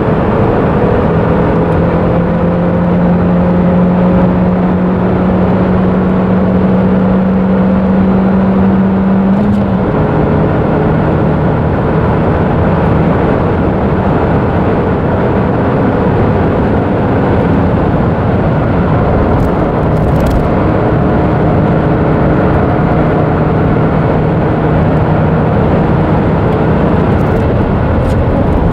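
Nissan March NISMO S's 1.5-litre four-cylinder engine accelerating, heard inside the cabin, its note climbing slowly. About ten seconds in a quick upshift drops the pitch, and it climbs steadily again in the higher gear, over constant road and tyre noise.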